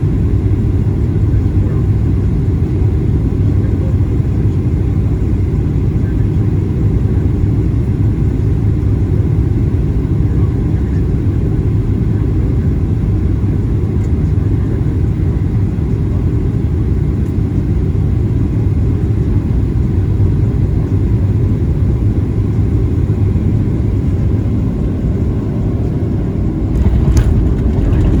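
Steady low rumble of a Boeing 737-800 heard from inside the passenger cabin, with a brief sharp click near the end.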